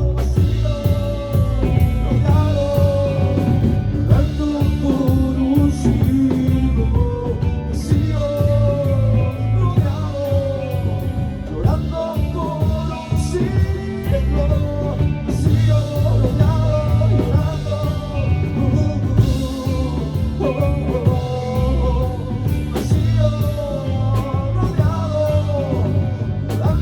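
A rock band playing in rehearsal: electric guitar and a singing voice over bass and drums.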